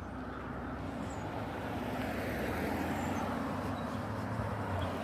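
Road traffic: a vehicle passing with a broad rush of tyre and engine noise that swells over the first couple of seconds and then holds. Faint bird chirps sound above it.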